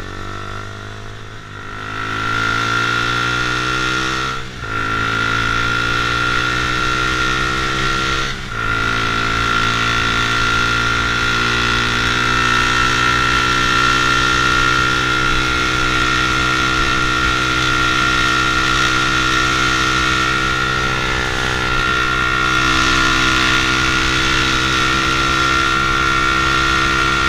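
Honda CBR150R's single-cylinder four-stroke engine accelerating while riding, its pitch rising and dropping at two gear changes about four and a half and eight and a half seconds in, then running at a steady cruise.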